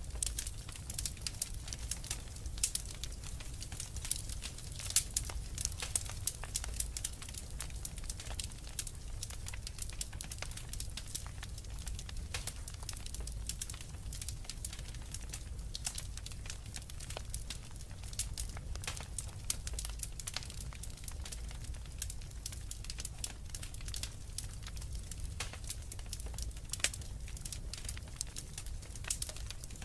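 Wood fire in a fireplace crackling: a steady run of sharp pops and snaps over a low rumble of burning, with a few louder pops.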